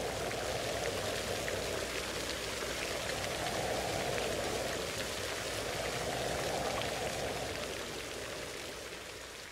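Rain falling steadily, with scattered separate drops ticking over a constant hiss, easing slightly near the end.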